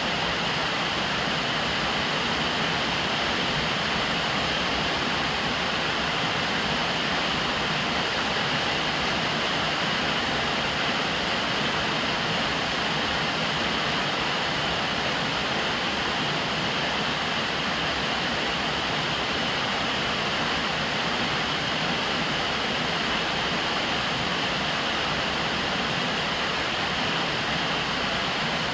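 Steady rain falling on a roof, an even hiss that holds at one level throughout.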